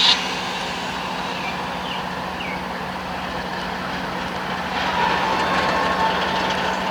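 Norfolk Southern train moving along the track: a steady rumble of rolling cars under a low, even engine drone, with a brief loud burst at the very start and a faint high tone from about five seconds in.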